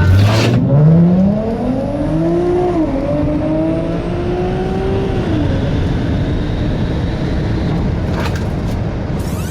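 An Infiniti's petrol engine accelerating hard from the launch, climbing in pitch with one upshift dip about three seconds in, then fading out after about five and a half seconds. A faint high electric whine rises under it, from the Tesla Model 3 Performance's motors.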